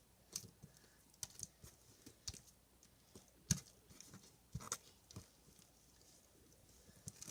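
Fluffy slime being kneaded and stretched by hand, giving irregular sharp clicks and pops, the loudest about halfway through.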